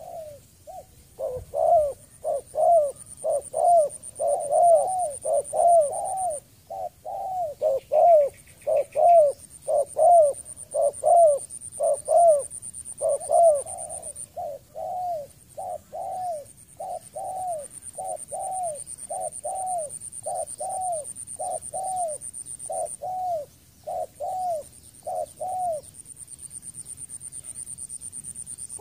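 Spotted dove calling in a long, fast run of short, arching coo notes, about two a second, that stops near the end. These are the agitated calls of a dove held in a trap.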